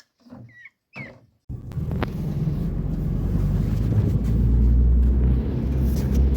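Steady low rumble of engine and road noise inside a moving vehicle, cutting in abruptly about a second and a half in.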